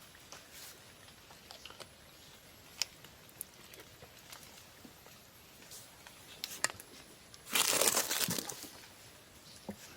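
Crinkling and rustling handling noise with scattered light clicks, loudest in a burst of about a second roughly seven and a half seconds in.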